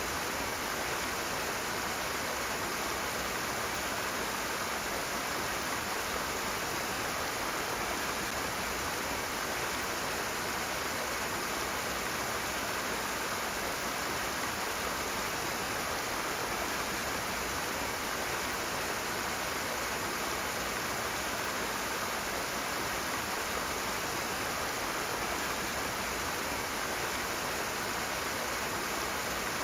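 Rushing water: a fast-flowing stream running in one steady, even rush with no breaks.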